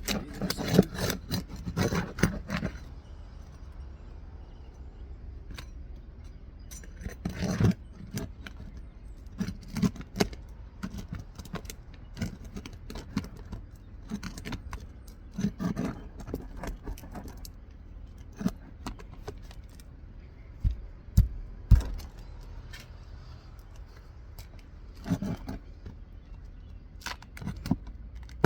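Roof snake (a flat metal shingle nail puller) worked under 3-tab asphalt shingles to loosen and pull roofing nails: irregular metal scrapes and clicks. A dense run comes in the first few seconds, then scattered strokes, with a few dull thumps past the middle.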